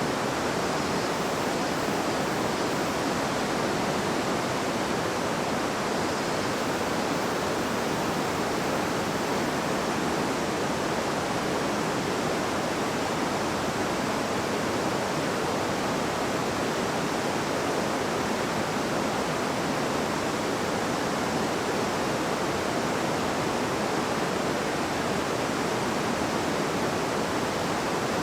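A river babbling and rushing over rocks, a steady, dense wash of flowing water.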